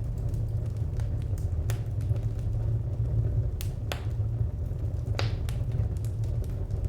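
Wood fire crackling: a steady low rumble with sharp pops and snaps scattered irregularly through it, the strongest pop about five seconds in.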